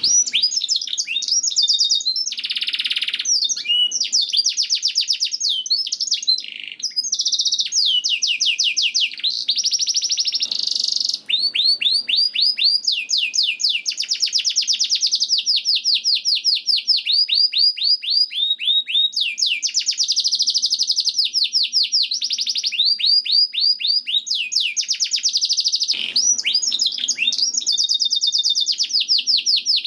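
Domestic canary singing continuously in high, fast trills of rapidly repeated falling notes, switching to a new trill every second or few.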